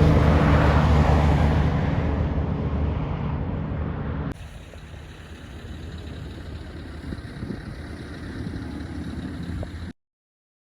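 Heavy diesel truck engine running loud with a steady low drone, fading as it draws away. About four seconds in the sound cuts suddenly to a much quieter low rumble of traffic, which stops abruptly near the end.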